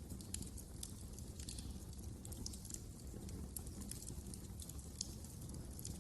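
Wood fire crackling in a fireplace: irregular sharp snaps and pops, several a second, over a steady low rumble of the burning fire.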